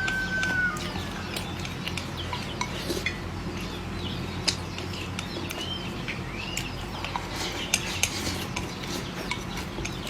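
Scattered light clinks of utensils against dishes, with small birds chirping in the background.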